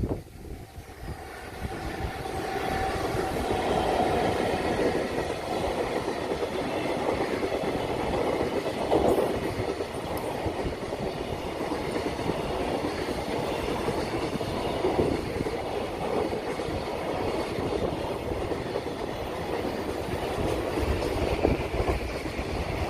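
Long freight train passing at speed: the rumble swells over the first few seconds as it arrives, then the wagons run by steadily with wheels clattering over the rail joints.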